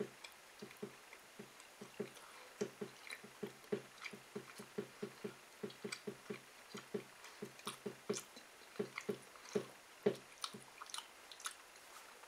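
A person chewing a piece of sweet and hot beef jerky, with soft, regular chews about three a second and brief pauses.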